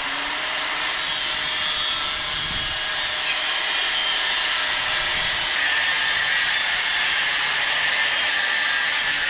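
Hand-held angle grinder spinning up and then running steadily against steel expanded metal, a loud, hissing grind that is strongest in the high range.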